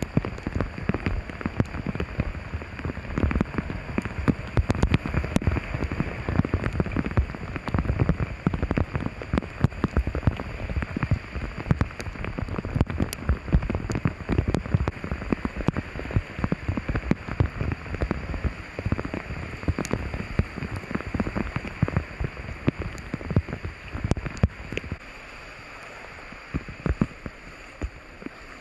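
Heavy rain, with a dense, irregular patter of drops striking a surface close to the microphone. The drumming thins out a few seconds before the end.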